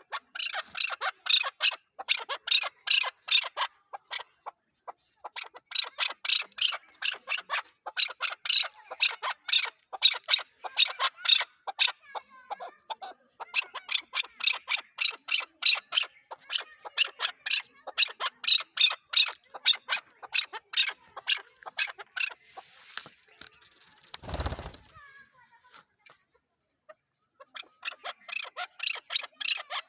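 Chukar partridge (chakor) calling in long bouts of rapid, repeated chuck notes, with short pauses between bouts. About three-quarters of the way through, a brief burst of noise with a deep rumble interrupts.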